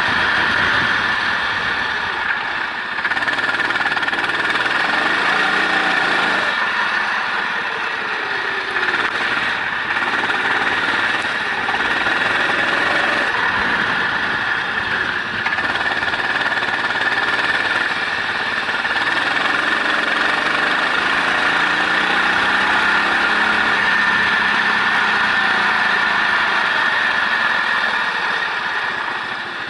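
Racing engine on track, revving up and falling back again and again as it runs through the gears, under a loud steady hiss of wind and spray.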